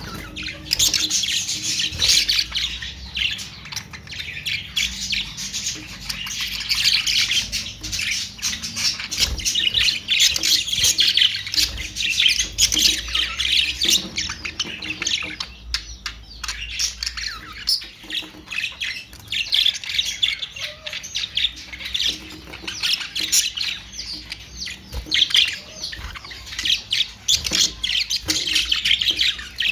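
A flock of budgerigars chattering and squawking without pause, a dense stream of overlapping high chirps and squawks.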